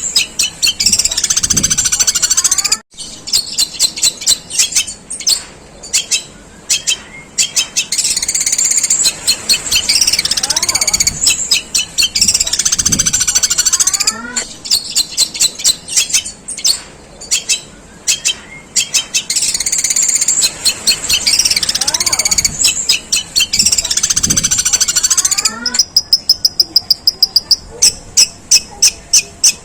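Long-tailed shrike singing a long, harsh song of rapid chattering phrases with mimicked house-sparrow chirps. Near the end it switches to a fast run of sharp repeated notes, about six a second.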